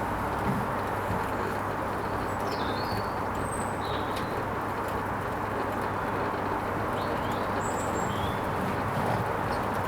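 Hoover Vision HVP16 washing machine running steadily on its Silks programme, a constant low hum and rush. Small birds chirp a few times in the background.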